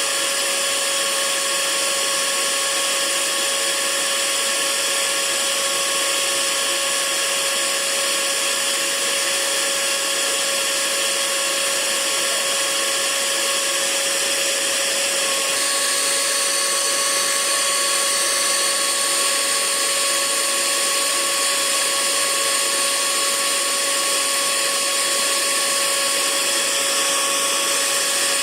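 Hair dryer running continuously: a steady, even rush of air with a constant motor whine. The whine changes slightly about halfway through.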